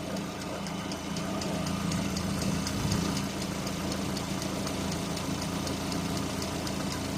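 Lada Granta Cross's VAZ-21127 1.6-litre 106 hp engine idling steadily, with a rapid, even ticking from under the bonnet. The uploader takes the ticking for the canister purge (adsorber) valve and calls it a normal sound for this Euro 5 car.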